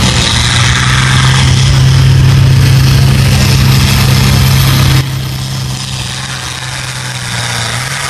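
Farm stock pulling tractor's diesel engine running loud at a steady, held pitch; about five seconds in the sound drops suddenly and the engine carries on much quieter.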